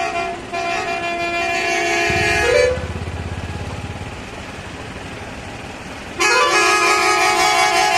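A vehicle horn sounds in a long blast of about two and a half seconds, broken briefly near the start and ending in a short pitch slide. It is followed by a low rumble and a quieter pause, and then a second long horn blast begins about six seconds in.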